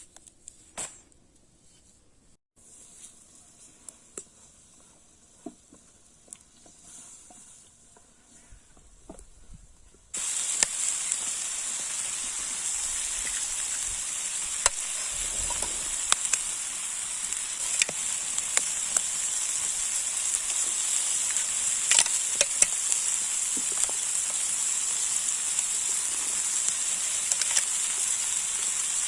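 Faint scattered clicks for the first part. About ten seconds in it cuts abruptly to food frying in hot fat: a steady loud sizzle with crackles.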